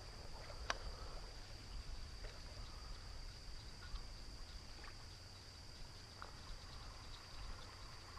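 Faint steady high-pitched insect drone, such as crickets, with a low outdoor rumble and a few soft clicks.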